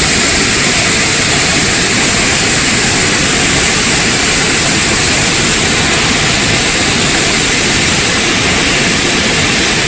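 Floodwater of a river in spate rushing past, a loud, steady, unbroken noise.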